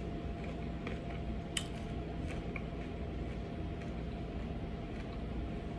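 Quiet room tone: a steady low hum with a few faint, short clicks scattered through it.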